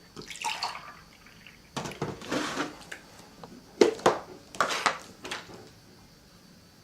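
Kitchen handling sounds while hot chocolate is made: several short knocks, clinks and rustles of mugs and utensils, with one sharp knock nearly four seconds in.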